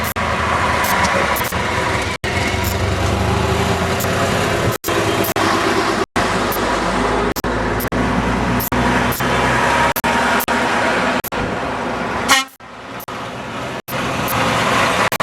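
Trucks in a convoy running past, engines droning, with horns tooting. A short loud burst comes about twelve seconds in, after which it is quieter for a moment.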